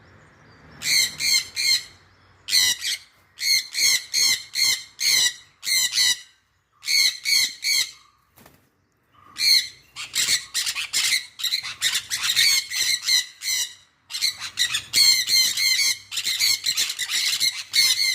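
Bird calling in quick series of short, high, repeated notes, with pauses between groups; the calls come almost without a break in the second half.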